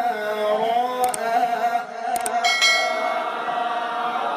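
Male voice chanting Quran recitation (tilawah), holding one long ornamented note whose pitch wavers slowly, with a couple of faint clicks in the first half.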